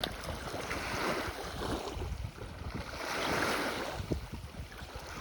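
Lake waves washing in, a steady rush of water that swells and falls about twice, with some wind on the microphone.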